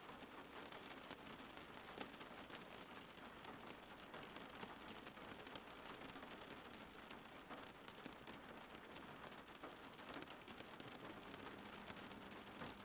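Faint steady rain falling, with many small drops ticking throughout.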